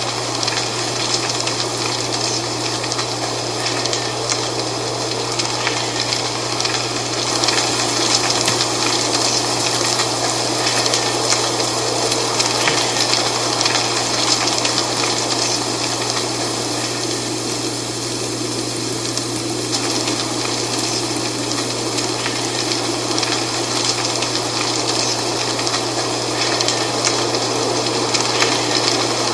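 Dry fall leaves rustling steadily in the wind, a dense crackling hiss with no pauses, over a constant low hum.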